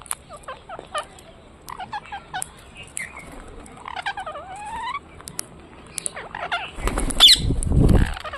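A bird chirping in short notes, then giving a few gliding whistled calls that bend up and down in pitch. Near the end comes a loud rustling burst lasting about a second and a half.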